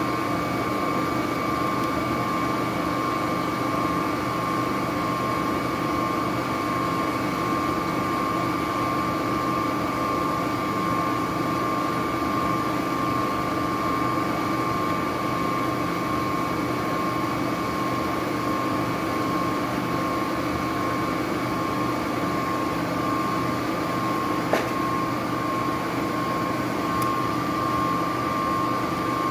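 An HVAC fan coil unit running steadily: an even machine hum with a constant high whine on top. A single sharp click about 25 seconds in.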